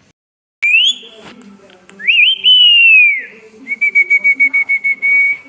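Pet parrot whistling: a rising whistle, then a long wavering whistle that slides downward, then a fast run of short notes on one pitch, about nine a second. A single click comes shortly after the first whistle.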